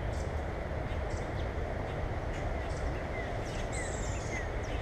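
Wild birds chirping, with many short high calls and one longer falling whistle about four seconds in, over a steady low rumble.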